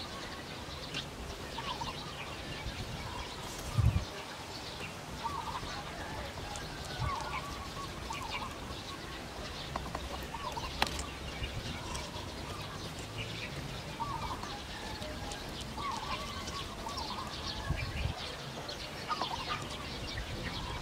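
Birds calling: short clucking calls repeated every second or two, like backyard fowl, with scattered higher chirps. Two dull low thumps stand out, one a few seconds in and one near the end.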